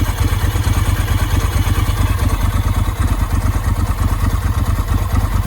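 1999 Ducati 996's 90-degree V-twin idling steadily with a pulsing beat while it warms up from a cold start, the high-idle button released so it runs at its normal idle speed.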